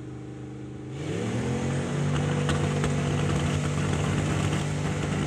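Drag-racing tractor engines, one a V8 in a Volvo BM, idling at the start line. About a second in they rev up sharply and hold at high, steady revs as they launch down the strip.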